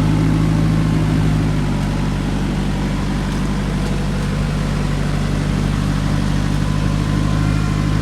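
Off-road SUV engine running steadily at low revs, with no rise or fall in pitch.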